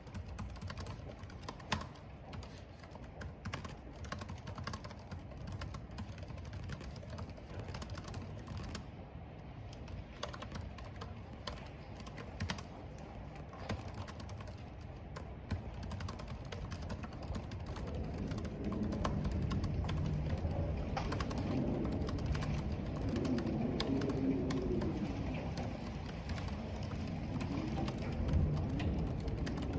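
Computer keyboard typing, a steady patter of irregular key clicks, over a low rumble of wind and rain that swells louder past the middle.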